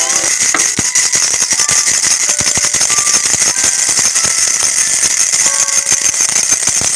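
Baby rattle (jhunjhuna) shaken quickly and without a break, a dense run of bright clicks with faint short tones underneath.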